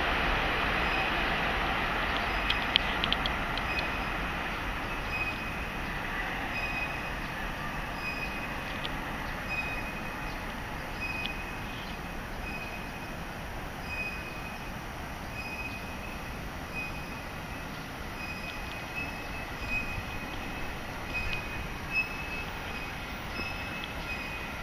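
Train running noise on electrified main-line track, loudest at first and fading over the first several seconds into a faint steady rail sound. Through it a faint high tone repeats a little more than once a second.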